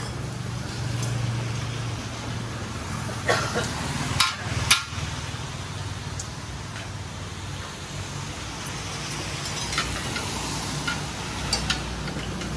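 Steady hiss of rain falling, with a low hum underneath. A few sharp metallic clicks and knocks from hand tools at a motorbike's rear wheel stand out, the loudest about four to five seconds in.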